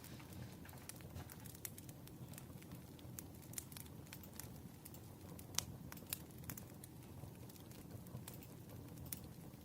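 Wood fire crackling: a low, steady rumble of burning logs with irregular sharp pops and snaps, the loudest pop about five and a half seconds in.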